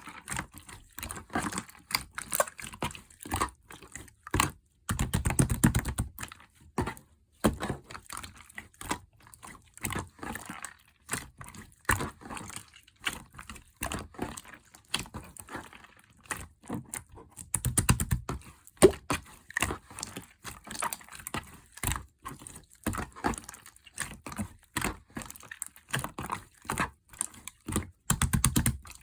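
Marbling slime being squished, pressed and stretched by hand, making rapid, irregular sticky clicks and crackles, with three denser runs of fast crackling about five, eighteen and twenty-eight seconds in.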